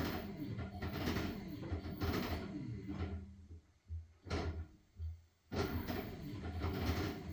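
LG washing machine drum turning a load of blankets in water: rhythmic sloshing and swishing over a low motor hum. It pauses for about two seconds in the middle, as the drum stops to change direction, then starts again.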